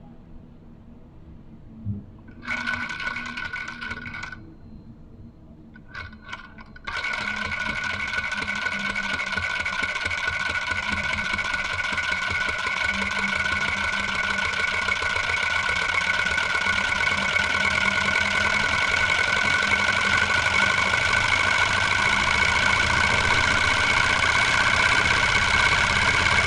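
Model hot-air Stirling engine driving a small generator, running with several steady high tones. It runs briefly twice, then from about seven seconds in keeps going, growing slowly louder.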